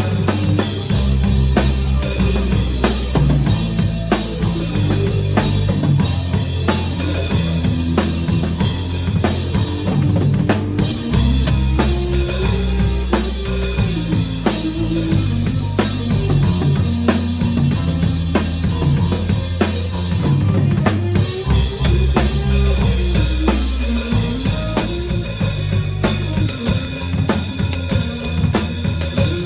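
Live band music with a drum kit keeping a steady beat over a bass line that changes notes every second or two.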